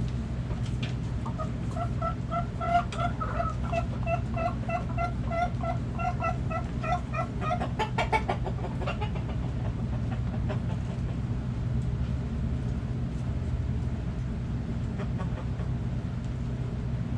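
Hen clucking in a long, even run of repeated notes, about three a second, for some six seconds before stopping, with a few sharp clicks near the end of the run. A steady low hum lies underneath.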